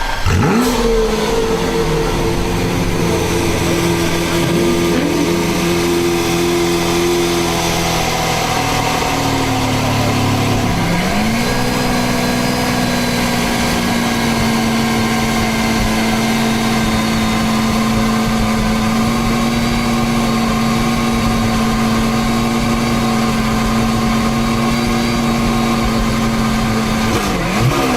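Car engine running steadily at idle after a brief rev that falls away at the start; about eleven seconds in, the pitch dips and settles at a new steady idle.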